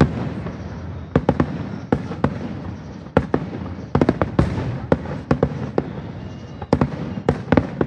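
Fireworks going off: a run of sharp bangs and cracks, some in quick clusters, over a continuous rumble of overlapping bursts.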